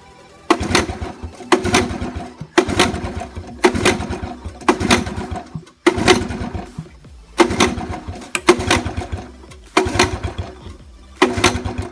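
Honda ATC70 engine being pull-started over and over, about ten pulls roughly a second apart. Each pull is a short burst of cranking that fades away without the engine catching: it will not start even with fuel squirted into the cylinder.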